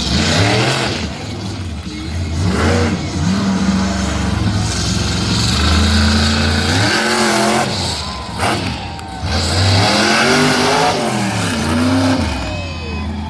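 Monster truck engine revving hard, its pitch climbing and dropping several times over a loud, steady engine rumble.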